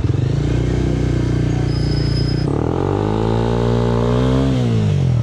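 Yamaha R7's parallel-twin engine, through an SC-Project exhaust, pulling away: it runs steadily, breaks at a gear change about halfway, rises in revs again, then drops back toward idle near the end as the throttle closes.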